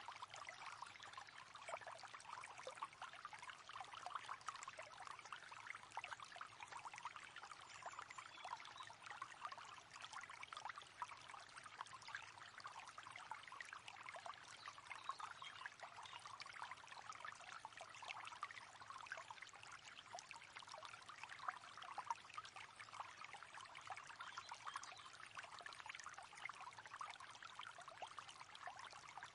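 Faint, steady river water babbling and trickling, a dense patter of small splashes with no pauses.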